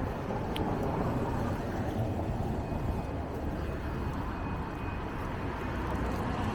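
Steady city street background noise with a low rumble of passing traffic.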